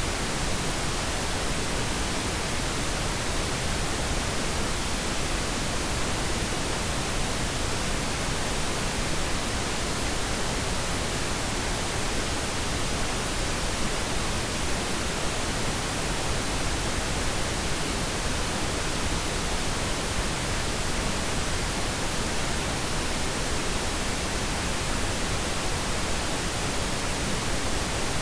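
Steady pink noise: an even, unbroken hiss spread across all pitches, softer in the highs than white noise.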